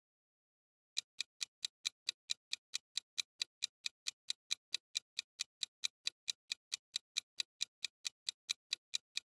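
Clock-ticking sound effect marking a countdown timer: short, even ticks at about four a second, starting about a second in.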